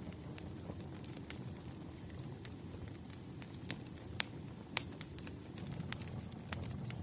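Firewood burning and crackling: irregular sharp pops and snaps over a steady low rumble of flames, with the loudest pops about four and five seconds in.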